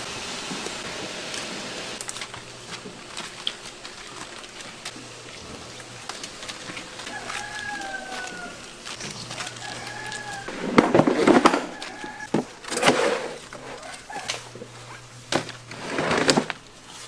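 Animal calls: a couple of short falling calls about halfway through, then several louder, longer calls in the second half, over a low steady hum.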